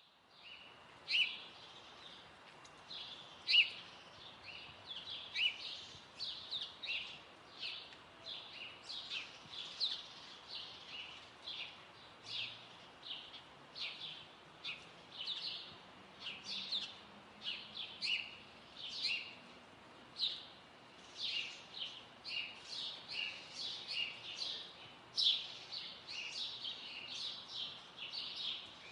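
Small songbirds chirping: a steady stream of short, high chirps, about two a second.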